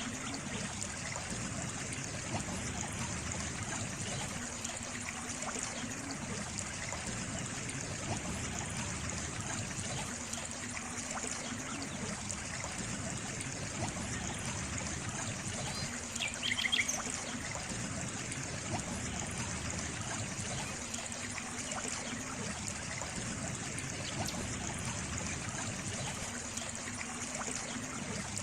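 Water trickling steadily in a small stream, with a low swell that comes back about every four seconds. A brief high chirp sounds once a little past halfway.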